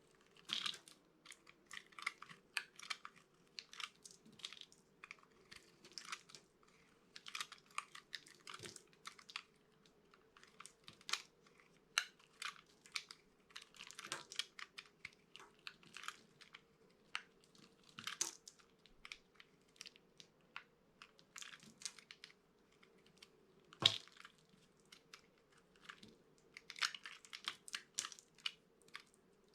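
A knife cutting through dry bar soap, making a dense run of crisp crunches and crackles in clusters with brief pauses, with one sharper crack about four-fifths of the way in. A faint steady hum runs underneath.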